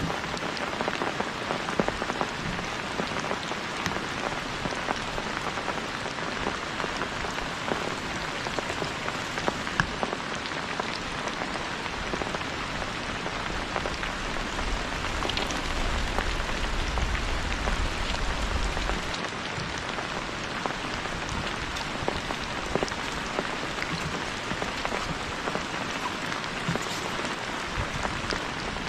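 Heavy rain falling steadily, with many individual drops ticking on a surface. A low rumble comes in for a few seconds about halfway through.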